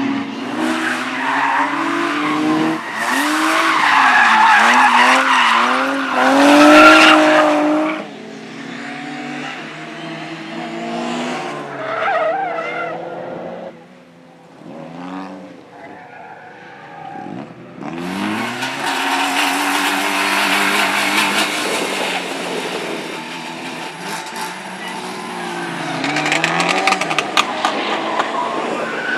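Rally cars driven hard, their engines revving up and down through gear changes with a rushing tyre noise underneath. The loudest pass peaks and cuts off sharply about a quarter of the way in, it goes quieter mid-way, and a loud noisy stretch starts abruptly in the second half.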